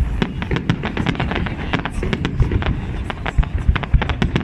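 Fireworks going off in quick succession: dense crackling and popping over a continuous low booming.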